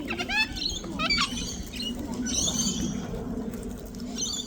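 Wild parrots calling: a quick run of chirping notes in the first second or so, then harsher screeching calls partway through and again near the end.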